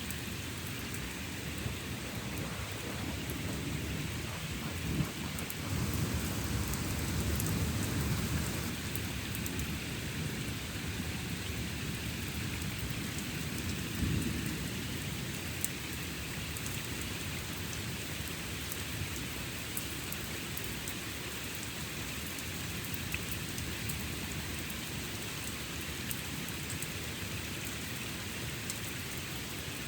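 Steady rain falling in a thunderstorm, with scattered sharp drop ticks. A low rolling rumble of thunder builds about five seconds in and lasts a few seconds, and a shorter rumble comes about fourteen seconds in.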